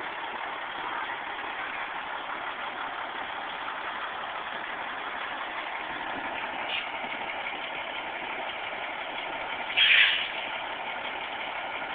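Semi truck diesel engines idling steadily, with one short, loud burst about ten seconds in.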